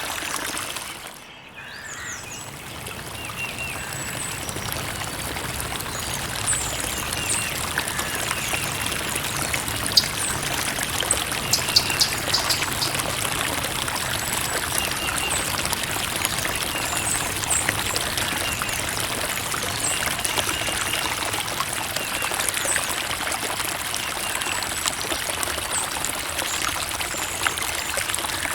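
A creek's running water trickling and splashing steadily. About a second in the sound briefly dips away and then builds back up over a few seconds.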